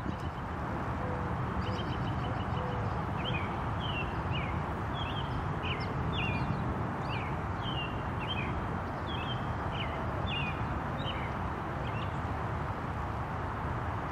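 A small songbird calls in a run of short, quick, sliding high notes from a second or two in until near the end, over a steady low background rumble.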